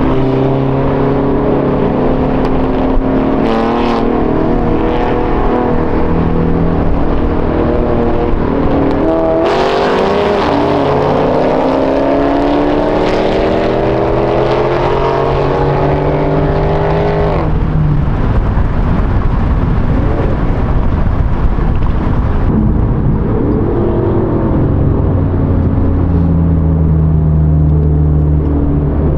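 Car engine running steadily, then revving up: its pitch climbs for about eight seconds and cuts off sharply. After several seconds of rushing noise, it settles back to a steady note near the end.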